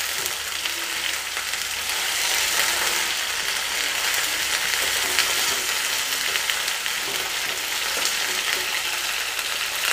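Cauliflower florets sizzling steadily in hot oil in a steel kadhai on high flame, with fine crackling and the scrape of a steel ladle stirring them.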